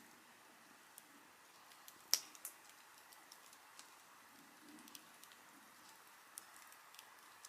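Campfire crackling: sparse faint ticks and pops of burning wood over a soft hiss, with one sharper pop about two seconds in.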